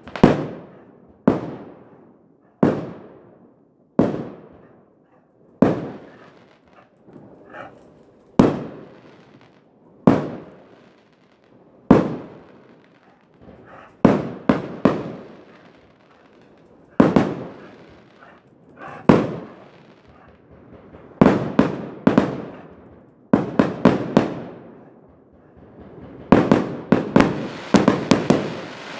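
Fireworks going off: a series of sharp bangs, each trailing off in a fading echo. At first they come singly, every one and a half to two seconds; later they come in rapid clusters of several bangs, thickest near the end.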